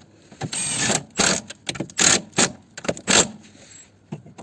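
Hand ratchet wrench clicking through a run of short, uneven strokes as a bolt on the car's anti-roll bar is tightened down.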